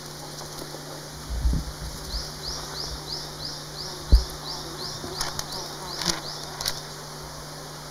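A bird calling a fast run of short, high, rising chirps, about three a second, for several seconds. Low thumps come near the start, and a single sharp thump about four seconds in is the loudest sound.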